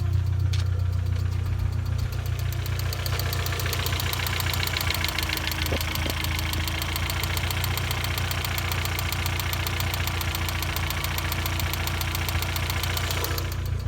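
Vauxhall Zafira GSi's turbocharged 2.0-litre four-cylinder petrol engine idling steadily after a cold start, with an even, fast firing rhythm.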